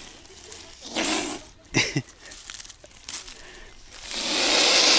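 Waterfowl begging for bread: a short hiss about a second in, a brief call with a falling pitch just before two seconds, then a long, loud hiss near the end.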